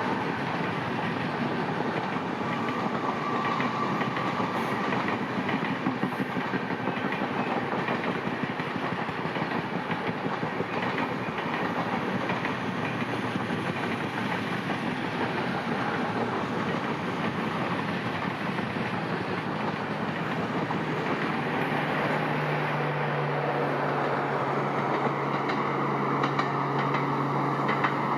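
Passenger express train's coaches rolling past at speed, a steady rumble with wheels clacking over rail joints. A steady low hum joins near the end.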